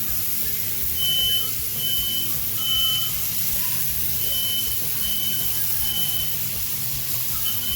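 Smoke alarm beeping its three-beep evacuation pattern: three short, high beeps, a pause, and three more, repeating. Set off by smoke from the cooking, over a steady hiss.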